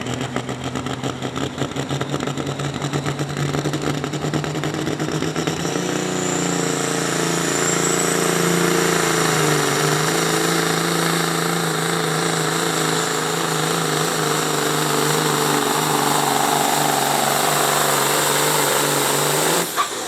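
Pulling truck's engine running at high revs under load during a pull, a steady loud note that climbs around six seconds in and holds, with a high whine rising above it. It cuts off abruptly near the end.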